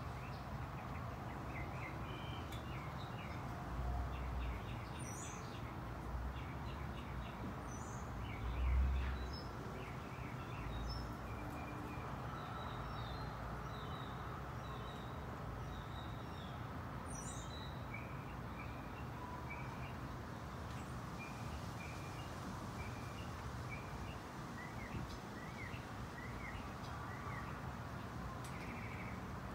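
Small birds chirping and calling repeatedly over a steady outdoor background hum, with a brief low rumble about nine seconds in.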